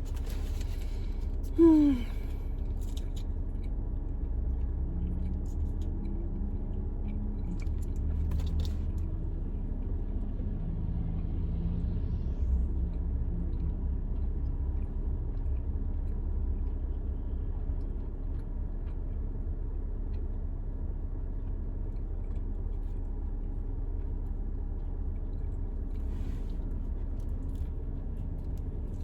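Steady low rumble of a car idling, heard from inside the cabin, with faint chewing and a few small clicks. There is a brief vocal 'mm' about two seconds in.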